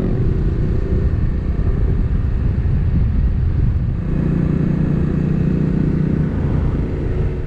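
Motorcycle running at road speed, a steady low rumble with rushing noise. A steadier engine note comes in about four seconds in and drops away about two seconds later.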